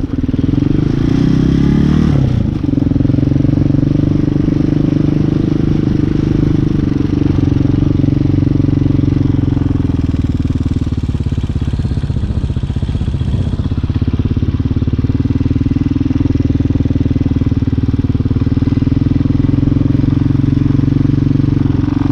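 Hawk 250 dirt bike's single-cylinder four-stroke engine pulling away, rising in pitch about a second or two in, then running at a steady cruise.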